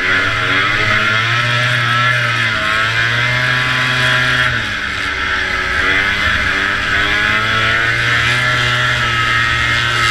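Vintage two-stroke snowmobile engine running at race speed, its pitch falling and rising several times as the throttle changes, with a steady rushing hiss over it.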